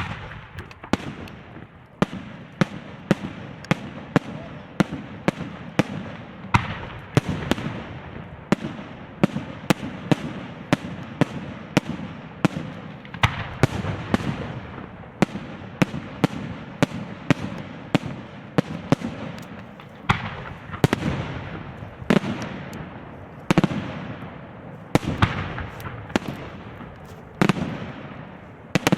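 Fireworks display: shells bursting in rapid succession, about two sharp bangs a second, each trailing off in a rumbling echo, with crackling between the bangs.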